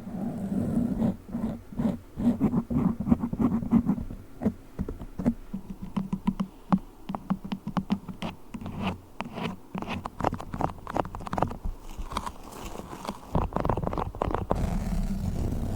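Close-miked handling of squishy, sticky ASMR trigger toys: fast, irregular crackling, clicking and squishing that changes character partway through.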